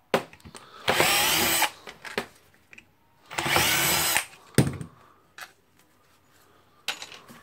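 Power screwdriver run in two short bursts, backing out the screws that hold the rotary hammer's gear housing to its motor housing, followed by a few light clicks.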